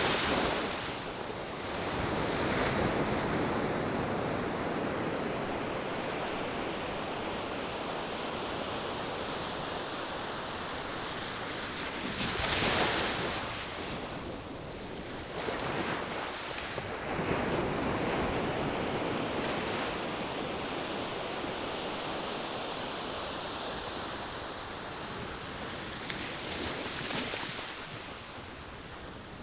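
Distant ocean surf breaking on a sandy beach: a steady rush of waves that swells with a fresh break every several seconds.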